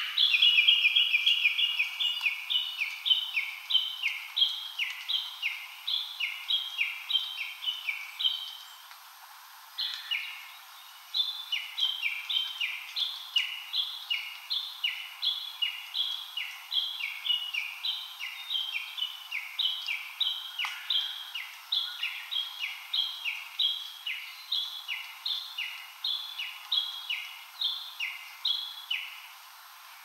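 A songbird singing a long, quick run of repeated phrases, each stepping down from a higher note to a lower one. The song breaks off briefly about a third of the way through, then carries on until near the end.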